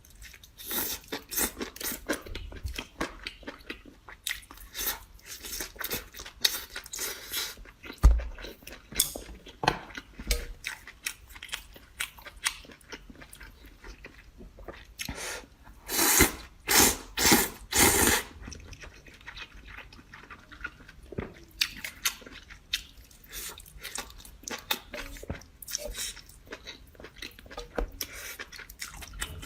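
A person chewing and crunching food close to the microphone, a steady run of wet, crackly bites and chews. A little past halfway comes a cluster of four loud crunchy bites.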